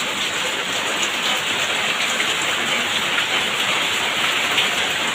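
Heavy rain falling hard and steadily, a dense even hiss of many drops hitting surfaces.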